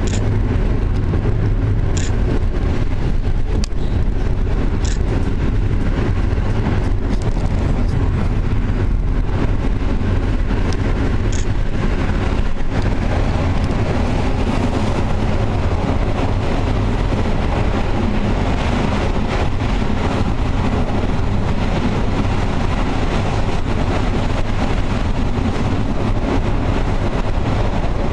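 Steady rumble of a passenger train running along the track, heard from on board, with a few short sharp clicks.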